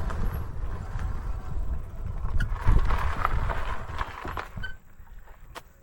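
Wind rumbling on the microphone of a moving e-bike, with a few sharp clicks and rattles, dying away about five seconds in as the bike comes to a stop.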